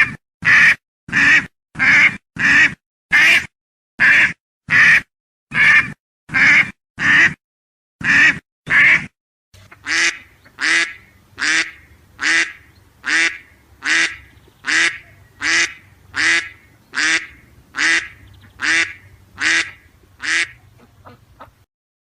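A duck quacking over and over, about one quack every two-thirds of a second. About nine seconds in, a second recording takes over with a faint low hum behind the quacks, which grow weaker near the end and then stop.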